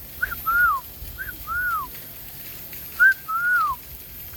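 A clear two-note whistle, given three times: a short high note, then a longer note that rises slightly and falls away.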